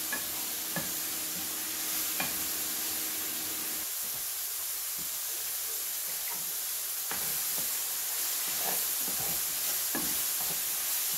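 Chicken stir fry sizzling steadily in hot oil in a frying pan, with occasional light clicks and scrapes from the pan.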